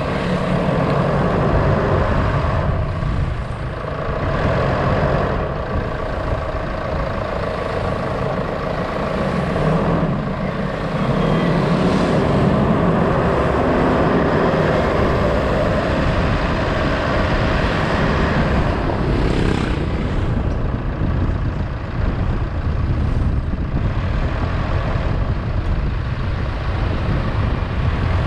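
A moving road vehicle: continuous engine and road noise, rising and falling a little in loudness.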